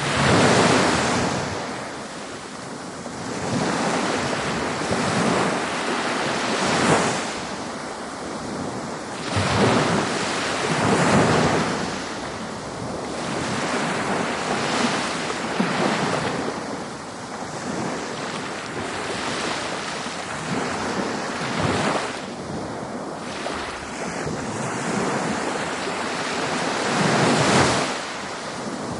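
Ocean waves breaking and washing on a beach, in surges every few seconds, with the loudest near the start and near the end. Wind buffets the microphone.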